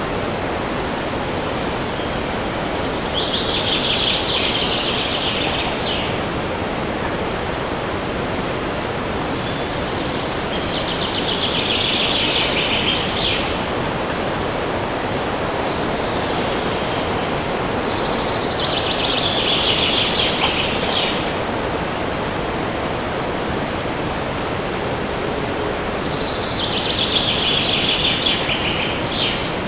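Steady wind rushing through forest trees. Over it, a songbird sings the same rapid trilled phrase four times, about every seven or eight seconds, each phrase lasting about three seconds.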